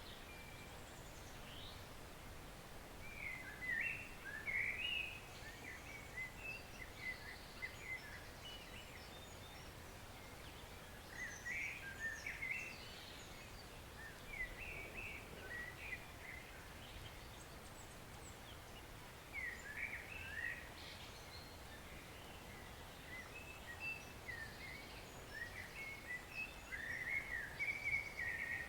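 A small songbird singing short phrases of quick chirps, about five phrases several seconds apart, over the faint steady hiss of a woodland stream.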